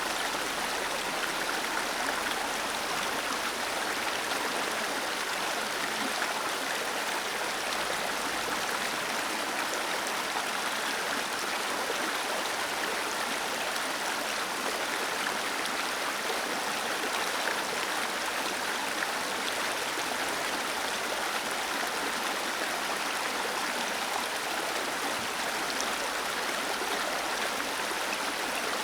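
Small waterfall cascading steadily into a stream, an even rushing splash of water.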